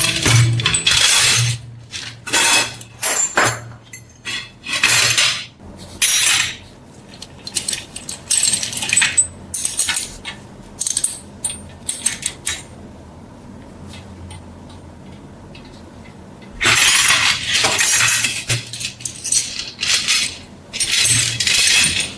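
Metal parts and tools clinking and knocking, in a run of separate sharp strikes, during hands-on work on a cast iron corn sheller. The clinks pause for a few seconds past the middle, then return with a denser stretch of scraping noise.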